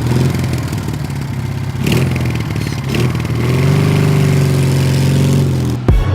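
Motorcycle engine running and revving, its pitch wavering a little around the middle; it cuts off near the end as music with a beat comes in.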